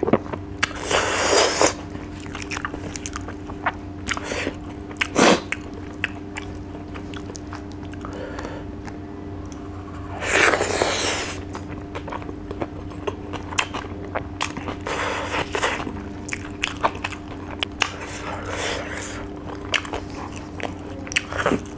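A man chewing and biting rice and dry fish eaten by hand: many short mouth clicks, broken by a few louder bursts about a second long. The longest comes about ten seconds in, as a handful of rice goes into his mouth.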